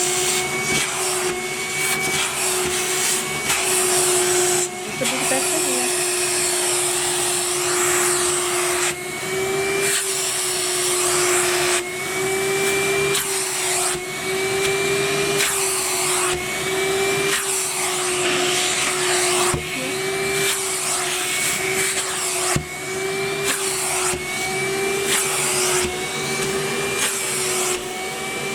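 Numatic Henry vacuum cleaner running, a steady motor whine over a rushing suction hiss. The pitch wavers slightly every second or two, with a few brief dips.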